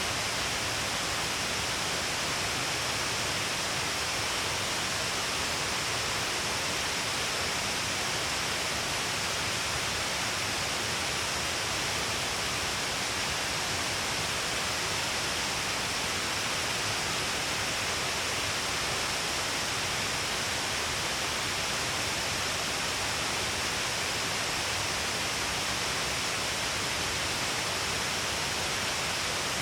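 Shiraito Falls, a wide curtain of water falling along a cliff, rushing steadily with an even, unbroken hiss.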